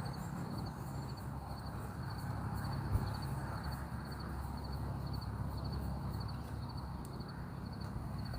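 Steady low rumble of outdoor ambience, with a faint high chirp repeating about twice a second and a single knock about three seconds in.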